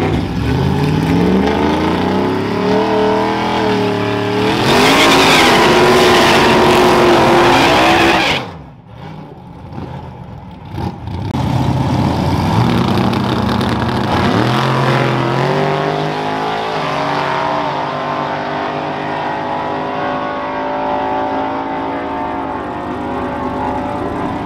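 Vehicle engines revving and accelerating hard, the pitch climbing in steps. A loud stretch of engine and tyre noise about five to eight seconds in cuts off suddenly, then an engine climbs through its revs again and holds high.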